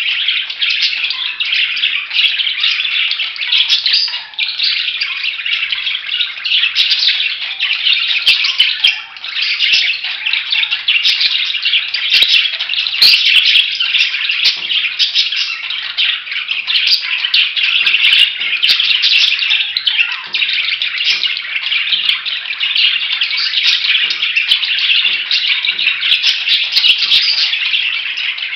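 Budgerigars chattering: a dense, continuous warble of overlapping chirps and squawks.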